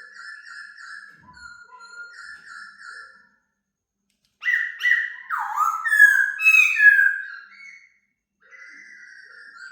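A songbird singing clear whistled phrases: soft repeated notes for about three seconds, a short pause, then a louder run of sliding, up-and-down whistles for about three seconds, then softer notes again near the end.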